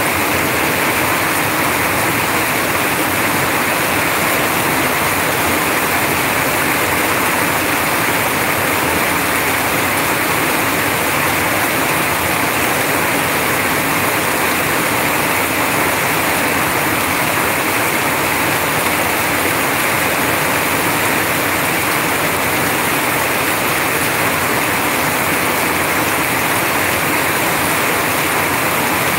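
Heavy rain pouring down steadily, with streams of runoff falling off a roof edge close by: a loud, unbroken rushing hiss.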